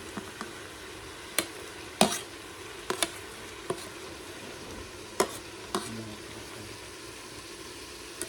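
Pork sizzling as it fries in a pan, stirred with a utensil that knocks against the pan about six times, the loudest knock about two seconds in.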